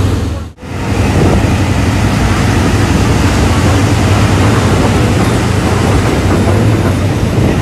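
Steady rumble and rushing noise of a State Railway of Thailand local passenger train in motion, heard from an open window. The sound briefly drops out about half a second in.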